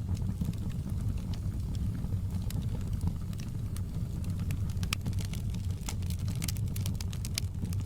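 Fireplace crackling: a steady low rumble of burning wood with frequent sharp, irregular pops and snaps, thicker in the second half.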